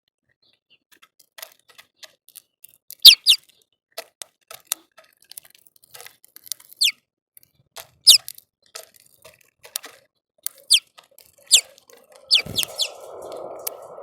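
Small birds chirping at a feeder, a few short calls sweeping down in pitch, over many light clicks and taps of pecking at seed. Near the end there is a thump, then a steady rustling noise.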